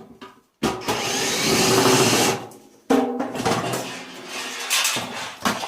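A power drill runs for about two seconds, driving out the last fixing from the tumble dryer's steel casing, then metal parts knock and rattle as they are handled.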